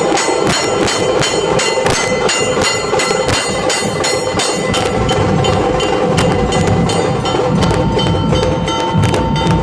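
Nashik dhol ensemble playing a fast, even beat of rapid strikes over steady metallic ringing. Deep bass dhol beats come in about halfway through.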